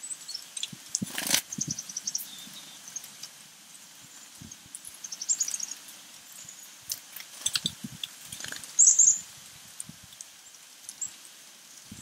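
Small birds giving short high-pitched chirps in quick runs, the loudest run about nine seconds in, with scattered soft taps and knocks in between.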